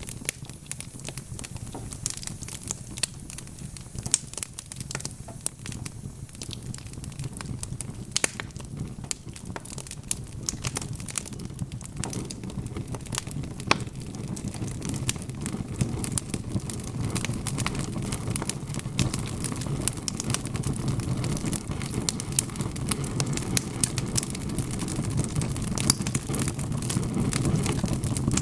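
Wood fire burning in a fireplace: logs crackling with many sharp pops scattered throughout, over a low, steady rush of flame that grows gradually louder from about halfway.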